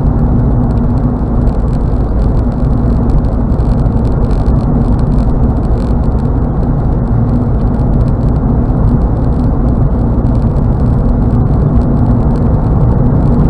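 Steady road and tyre noise with a low engine hum inside a car's cabin cruising at highway speed.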